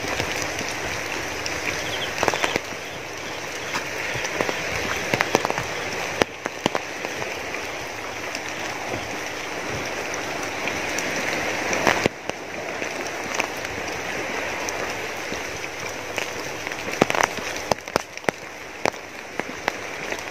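Rain falling, with raindrops ticking on an umbrella held over the camera: a steady hiss with frequent sharp drop hits.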